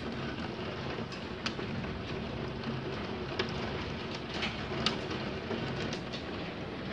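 Heavy rain and hail pouring down steadily, with scattered sharp clicks of hailstones striking hard surfaces.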